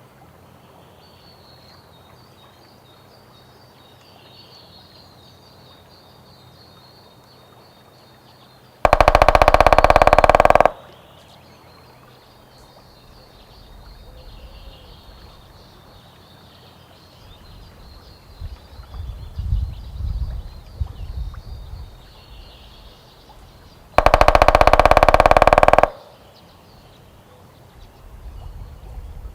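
White-backed woodpecker drumming twice, each roll lasting about two seconds and made of very rapid strikes that speed up toward the end; a low rumbling noise comes in between the two rolls.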